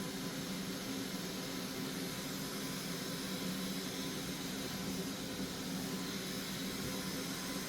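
Hot air rework station blowing a steady hiss of hot air, heating solder on the circuit board.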